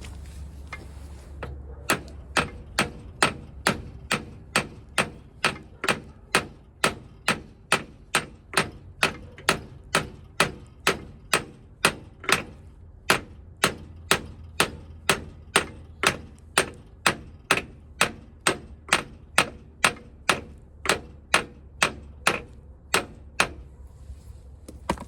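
Steady hammer blows on metal, about two a second, each with a short ring, starting about two seconds in and stopping shortly before the end: the end of the Ram 1500's front axle shaft being driven through the wheel hub.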